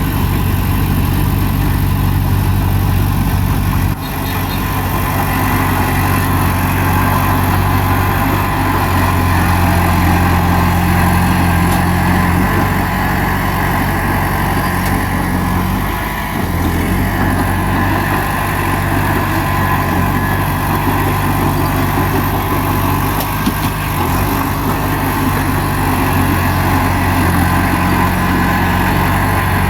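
Bulldozer's diesel engine running steadily under work, its note dipping briefly about 4 seconds in and again around 16 seconds.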